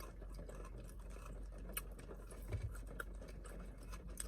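Faint irregular clicks and crunches of someone eating crispy potato fries, with a soft low thump about two and a half seconds in.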